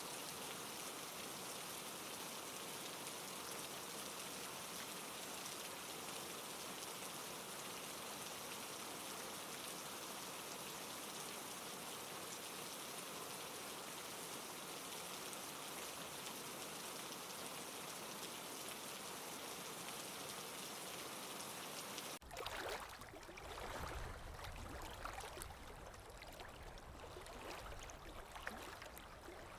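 Steady, even rain hiss that cuts suddenly about three-quarters of the way through to a different ambience track of flowing water, rougher and uneven, with a deep rumble underneath.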